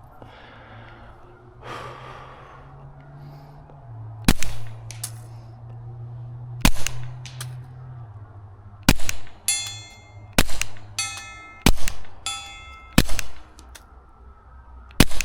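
About seven suppressed shots from a Taurus TX22 .22 LR pistol firing CCI subsonic rounds through a Resilient Suppressors Jessie's Girl suppressor, spaced one to two seconds apart. Twice, about half a second after a shot, a steel target plate rings back faintly from about 96 yards out, marking a hit.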